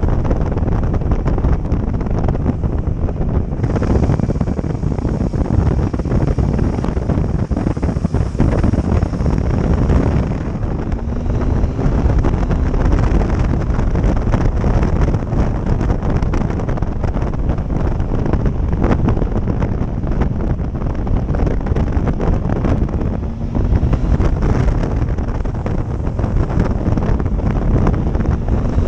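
Heavy wind buffeting a microphone on a moving motorcycle, with the engine running underneath; the engine note rises briefly twice.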